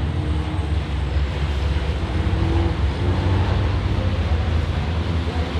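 Diesel engines of racing trucks running hard on track, a steady deep drone.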